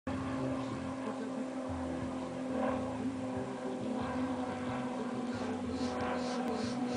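Tiny .049 model airplane glow engine running at a steady high pitch.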